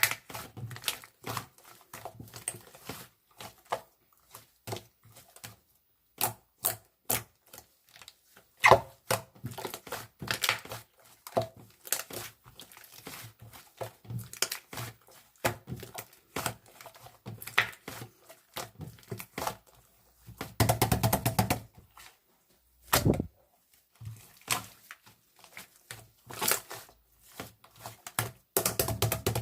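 Irregular clicks, taps and crinkling of small objects being handled close up, with a dense rapid run of scratchy clicks about two-thirds of the way through and a single dull thump just after it.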